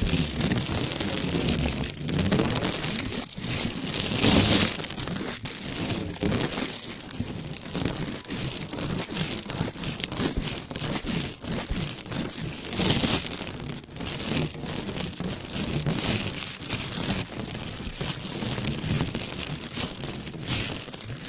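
Close-up ASMR crinkling and crackling, like something crumpled or rubbed right against the microphone, continuous and dense with a few louder swells.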